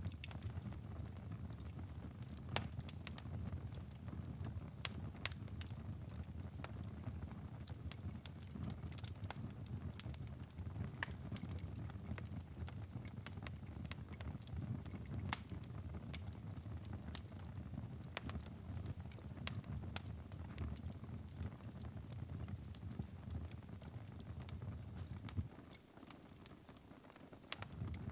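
Wood fire crackling in a fireplace: frequent, irregular sharp pops and snaps over a low, steady rumble of flames. Near the end the rumble briefly drops away before returning.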